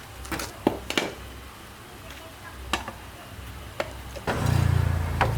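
A few scattered clicks and knocks, then about four seconds in a small motor starts and runs with a steady low hum.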